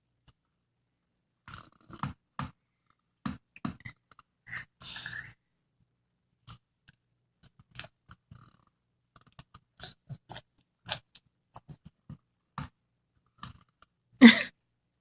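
A baby's scattered mouth noises while eating banana: smacking, chewing and small grunts, as he squirms to get out of his seat. One short, much louder vocal burst comes near the end.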